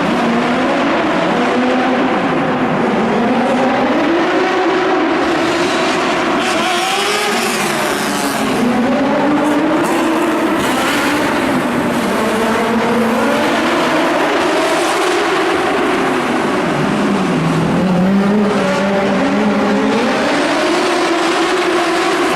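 Drift car engine revving up and down over and over through a drifting run, with tyre squeal, echoing in an indoor sports hall.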